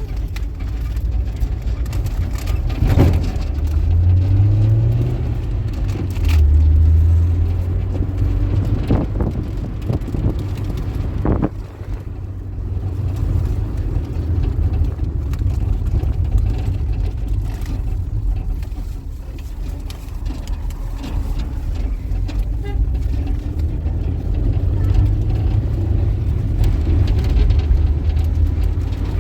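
Motor vehicle driving, with a steady low engine and road rumble. The engine note rises briefly a few seconds in, and there are a few sharp knocks along the way.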